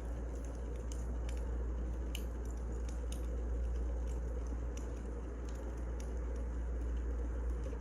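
Wood fire burning: irregular small crackles and pops over a steady low rush.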